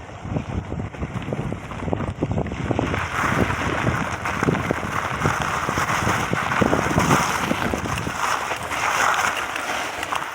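Wind buffeting the microphone in low gusts and thumps. About three seconds in, a steady rushing hiss builds up under it.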